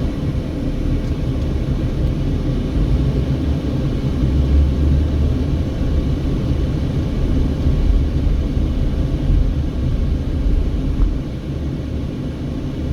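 Car driving slowly on a town street, a steady low rumble of engine and road noise that swells a little a few seconds in and eases near the end.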